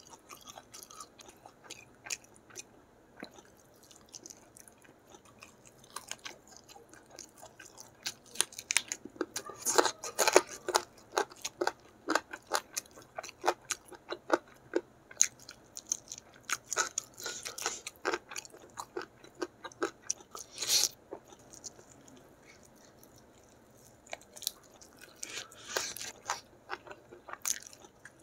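Close-miked chewing and smacking of a mouthful of rice and gulai chicken eaten by hand: many short wet clicks and crunches, thickest in the middle, with a quieter gap of a couple of seconds near the end.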